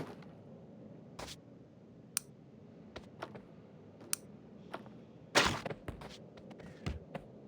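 Irregular sharp clicks and light knocks, with one louder knock about five and a half seconds in.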